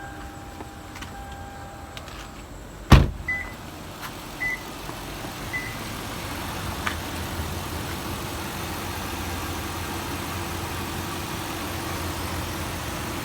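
2006 Lexus LS 430's 4.3-litre V8 idling steadily shortly after a cold start, a nice little hum. A single sharp thump about three seconds in is the loudest sound, followed by three short high beeps about a second apart.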